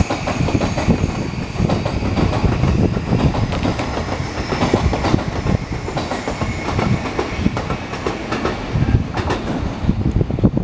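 A 15-car JR East E231/E233 electric commuter train pulling out of a station. Its wheels clatter steadily over rail joints above a continuous rumble, with a high whine that fades within the first two seconds.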